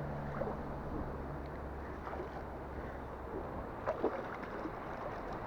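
A steady low engine hum that fades out within the first three seconds, leaving outdoor wind and water noise with a couple of light clicks about four seconds in.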